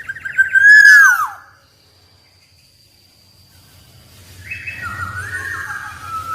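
Black-naped oriole singing: a loud phrase of whistled notes that slide downward, then a pause, then a softer, warbling phrase from about halfway through.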